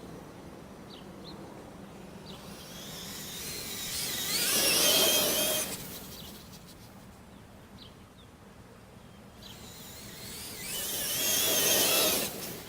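Traxxas E-Revo brushless RC truck passing at speed twice, its motor and drivetrain whine swelling as it approaches and dropping away sharply as it goes by.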